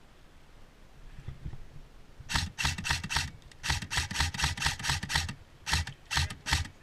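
Airsoft electric gun (AEG) firing a string of semi-automatic shots, about five a second, in four quick groups of sharp clicking reports that start a little over two seconds in.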